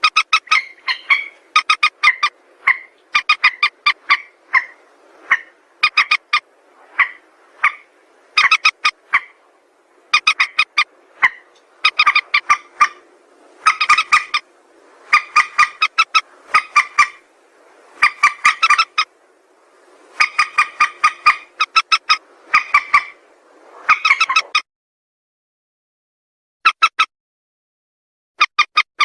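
Calls of the mandar sawah, a rail: loud, repeated runs of quick, rasping notes, several a second, coming in bursts of about half a second to a second. The calling breaks off about 24 seconds in, with two short bursts after that.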